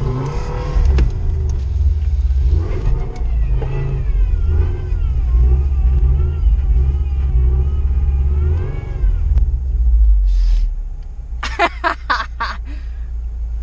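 Subaru car engine revving in repeated surges, rising and falling, as the car tries to power out of deep snow and stays stuck. The revving eases about ten seconds in, followed by a few short sharp sounds.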